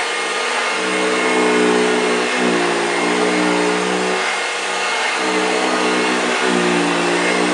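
1965 Hoover Junior 1334A upright vacuum cleaner running, a steady motor hum whose pitch dips briefly and recovers every second or two, as when it is pushed back and forth over carpet.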